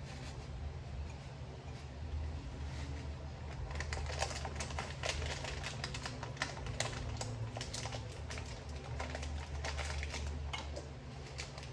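Rapid, irregular tapping and clicking, several clicks a second, over a steady low hum. The clicking starts a few seconds in and thins out near the end.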